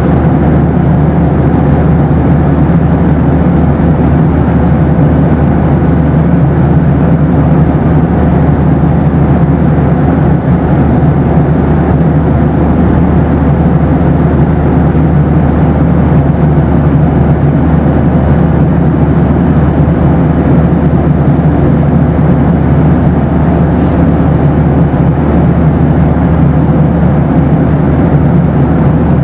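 Boeing 737 in flight: a steady, even rush of engine and airflow noise, heavy in the low end, with a faint steady hum and no changes.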